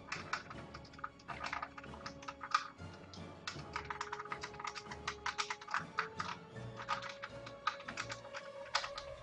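Quick, uneven clicks and taps of hard plastic as a 1/6-scale action figure's helmet and visor are handled and pressed to work the visor loose, over soft background music.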